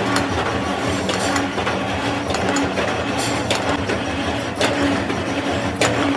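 Workshop machinery running steadily with a humming tone that comes and goes, broken by a few sharp metallic clinks.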